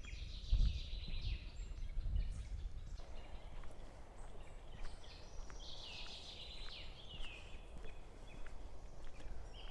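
Small birds calling in scratchy bursts of chatter, once near the start and again in the middle, over low rumbling and thumps from wind or movement on the microphone.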